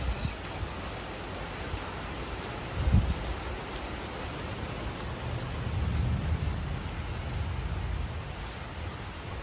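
Steady rain falling, with a short low rumble of thunder about three seconds in and a longer rolling rumble in the second half.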